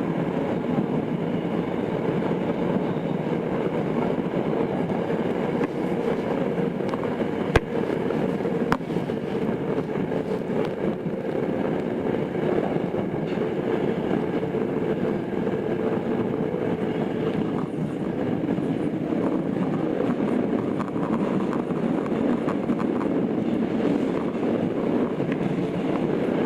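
Tokyo Metro 02 series subway train, IGBT-inverter set, heard from inside the car while running between stations: a steady rumble of wheels and running gear. A faint steady tone fades out about two-thirds of the way through, and two sharp clicks come a second apart about a third of the way in.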